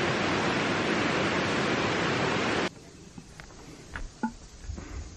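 Steady rush of a river running past the campsite. It cuts off abruptly about two and a half seconds in, leaving a much quieter background with a few faint clicks and knocks.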